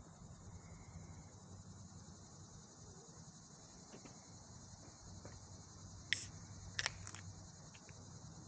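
Faint, steady insect chorus, a high even chirring, over low background hum. A few sharp clicks stand out about six and seven seconds in.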